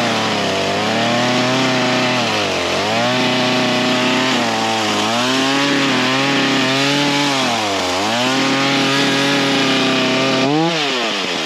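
Ryobi 37cc two-stroke gas chainsaw running at high revs while cutting wood, its engine pitch sagging and recovering about four times as the chain bites under load. Near the end the revs rise briefly, then drop off toward idle.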